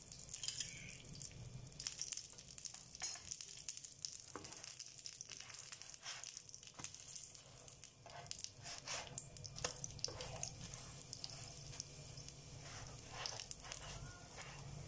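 Ghee sizzling faintly under small aloo parathas frying on a nonstick tawa, a steady crackle with scattered little pops.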